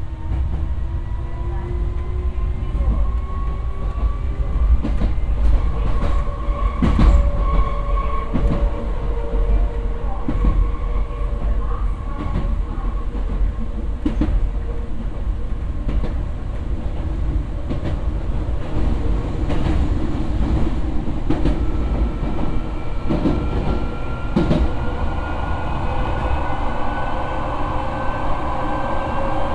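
Nose Electric Railway train heard from inside its rear cab as it pulls away from a station: a motor whine slowly rising in pitch as it gathers speed, over a steady rumble of wheels on rail, with irregular clacks as the wheels pass rail joints. Near the end the train is in a tunnel.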